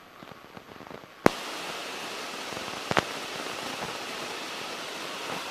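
A sharp click about a second in, then a steady hiss of noise in the aircraft's headset and intercom audio, with another short click a couple of seconds later.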